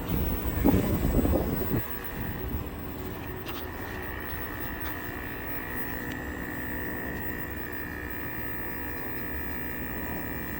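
Steady machine hum with a high whine, and a brief louder rumble about half a second to two seconds in.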